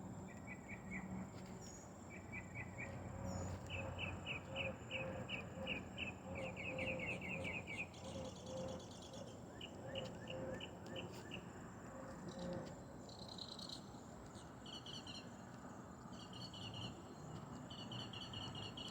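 Insects chirping outdoors, short high chirps repeated in quick runs that come and go, over a faint low background hum.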